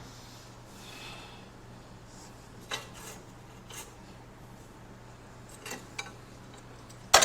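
Faint, scattered light clicks and metallic clinks of parts and wiring being handled and set down, over a steady low hum, with a sharper click near the end.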